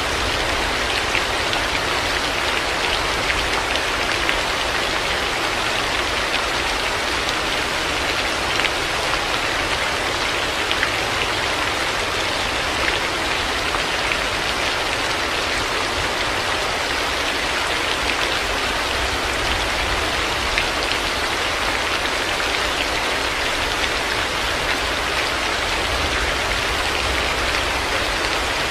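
Heavy rain falling steadily, with scattered sharper drop hits and a low rumble underneath.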